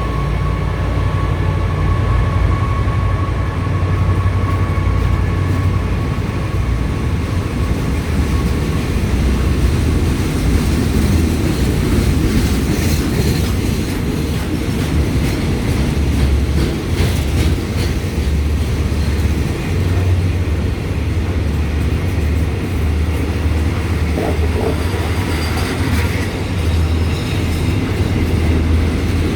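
Freight train headed by a CRRC CDA5B1 diesel-electric locomotive: a steady, loud low engine drone with the rumble of the train on the rails. A thin whine rides on top early on and fades out about nine seconds in.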